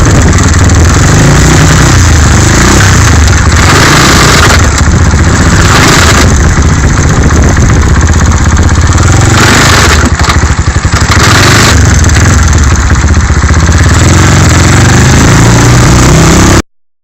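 Skyteam 125cc motorcycle engine running and revving, loud and distorted, its pitch rising and falling. The owner complains of a loud noise from it that comes only on the shift into second gear. The sound cuts off suddenly near the end.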